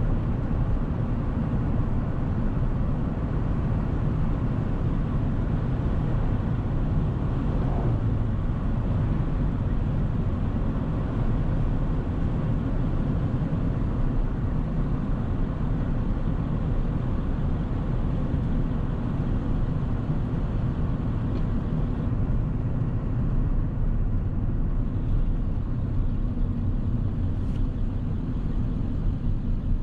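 1997 Ford 7.3 Powerstroke turbodiesel V8 running steadily under way, a continuous low rumble with road noise.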